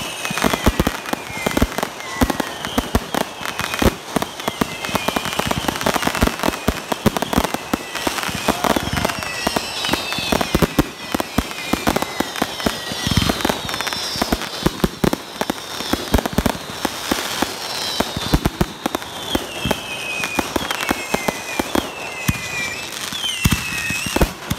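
Consumer fireworks cakes firing in a rapid, continuous barrage of overlapping shots and bursts, with many short falling whistling tones above them.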